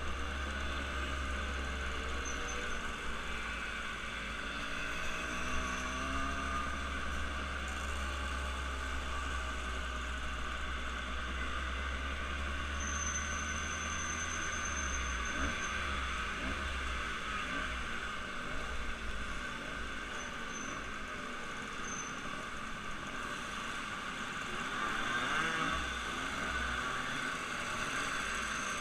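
A vehicle running steadily, with a low hum that weakens about halfway through.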